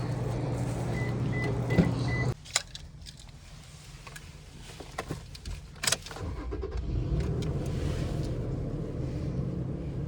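Vehicle sounds at close range: a steady low hum with a quick run of high electronic beeps, which cuts off abruptly a couple of seconds in. Then come a few clicks and a sharp knock, and a low steady rumble starts up again about six seconds in.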